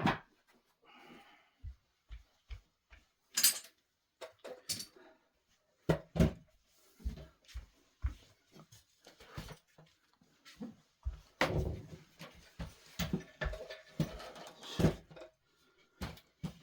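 Irregular clicks, knocks and thuds of objects being handled and set down in a small room, with a cluster of heavier thumps toward the middle and later part.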